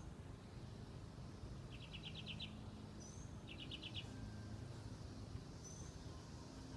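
Faint bird calls over low steady background noise: two short, rapid high trills, one about two seconds in and another a little before four seconds, with a few brief high chirps between.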